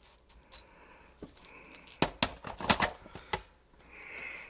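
Sharp clicks and clacks from the removable burr of a KitchenAid KCG8433 burr coffee grinder being twisted and pulled in its housing, with a quick cluster of them from about two seconds in.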